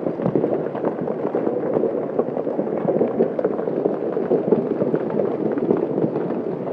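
Large hailstones pelting down in a heavy hailstorm: a dense, continuous clatter of countless impacts.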